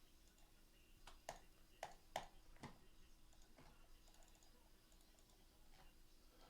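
Faint, scattered clicks of keys on a computer keyboard, most of them bunched together about a second or two in, over near silence.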